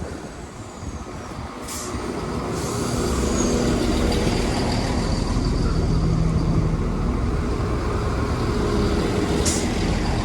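Chiltern Railways Class 168 diesel multiple unit drawing into the platform, its diesel engines growing louder over the first few seconds and then running steadily. Two short hisses of air, near the start and near the end.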